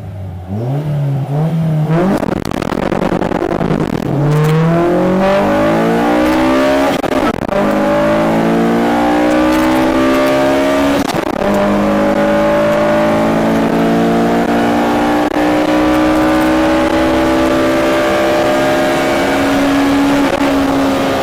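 Honda CRX del Sol VTi's 1.6-litre B16A2 DOHC VTEC four-cylinder under hard acceleration. The revs climb and drop back at each upshift, about 2, 4, 7 and 11 seconds in, then rise slowly in the higher gears.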